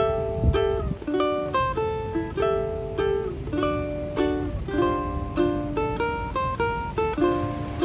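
Ukulele music: a quick melody of plucked notes, several to the second.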